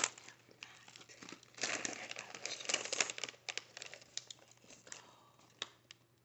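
Crackling and crinkling of a seafood boil being handled by hand: a dense run of crackles and sharp clicks from about one and a half to three seconds in, thinning to scattered light ticks near the end.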